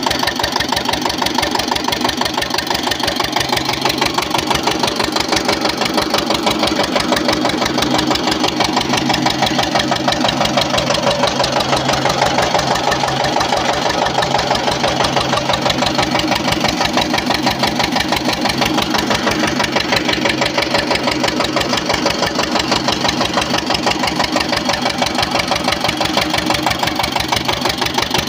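Veer Pratap irrigation pumpset engine running steadily at a constant speed, its rapid, even chugging beat unbroken while it pumps water.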